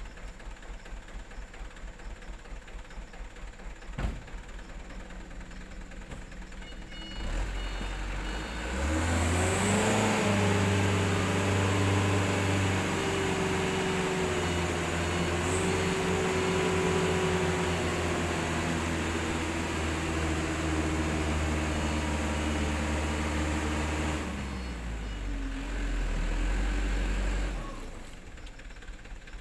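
Diesel engine of a loaded Super HDX dump truck, idling with a regular chug, then revved up about seven seconds in and held at high revs for about fifteen seconds before dropping back to idle near the end. The engine is straining to get the truck out of deep mud where it is stuck.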